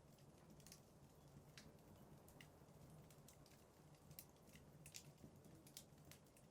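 Logs burning in a fireplace, crackling faintly: scattered sharp pops and snaps, roughly two a second at irregular intervals, over a low steady rumble.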